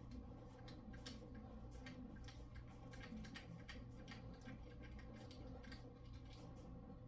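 Faint, irregular clicking of hand tools working on an engine, several light clicks a second, over a steady low hum.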